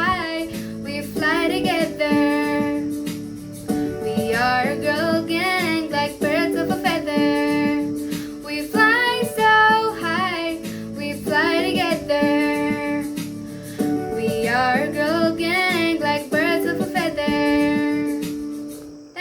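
Pop song with a girl's high singing voice over a guitar-led backing track; the sung phrases go on throughout and the music fades out at the end.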